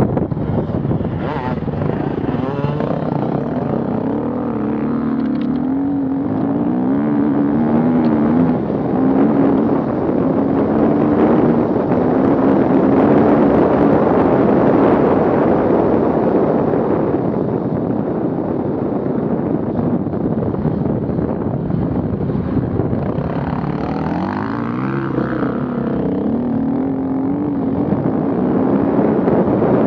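Off-road vehicle engine running under load, its revs wavering up and down, with a marked rise and fall in revs about three-quarters of the way through.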